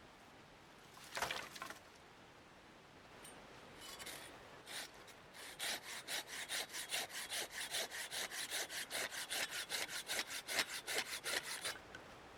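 Hand saw cutting through wood: a couple of short strokes first, then a steady run of even back-and-forth strokes, about four a second, that stops shortly before the end.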